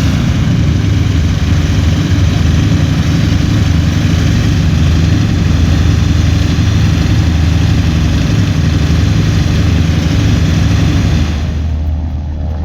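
Propeller aircraft engine running loudly and steadily at close range, then dropping away sharply about a second before the end.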